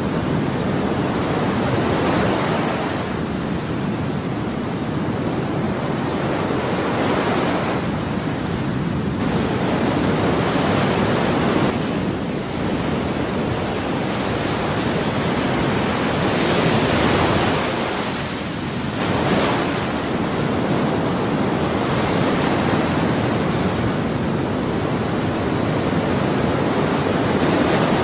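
Ocean waves breaking and washing ashore in a continuous rush, with surges every few seconds as each wave breaks.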